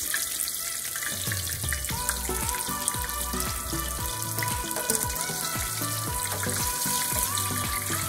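Breaded sea robin pieces sizzling in hot oil in a frying pan, with background music playing.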